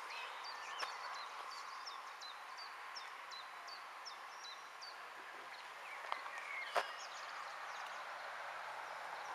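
A small bird chirping a short repeated note, about two to three chirps a second, stopping about four seconds in, over a steady outdoor hiss. A couple of sharp clicks come about six and seven seconds in.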